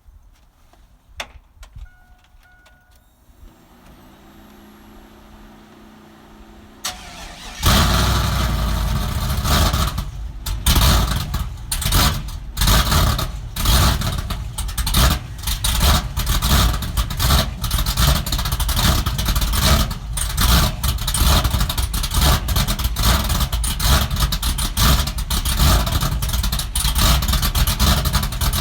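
Cammed pickup truck engine being started: two short beeps and a low hum, then it cranks and fires about seven seconds in. It settles into a loud, uneven, pulsing idle.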